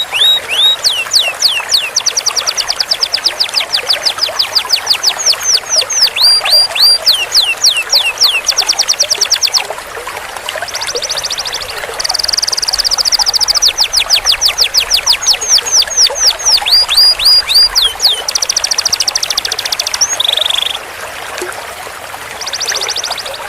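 Domestic canary singing long rolls: fast trills of rapidly repeated high notes, one roll running into the next, with a quieter stretch near the end.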